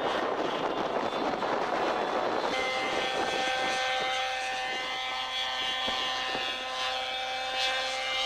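Radio-control helicopter running: a dense rushing noise that gives way after about two and a half seconds to a steady, even whine.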